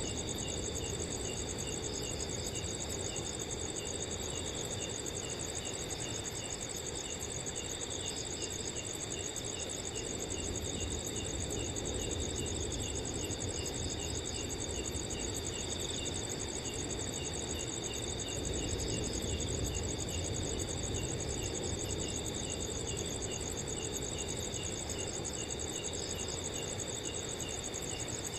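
Crickets calling at night: several overlapping voices, one a continuous high trill and another chirping steadily at about two or three chirps a second, over a low steady rush of wind.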